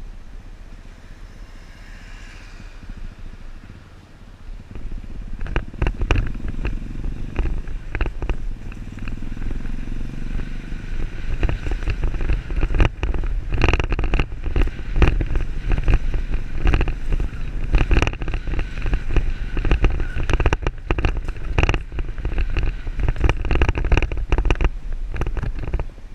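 Motorcycle engine running while riding, quieter at first and much louder from about five seconds in.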